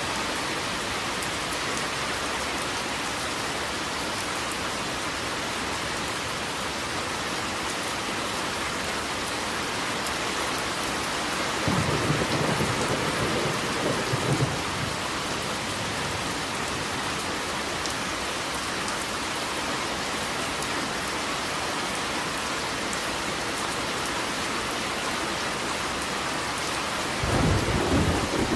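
Steady heavy rain, with thunder rumbling twice: once for about two and a half seconds midway and again starting near the end.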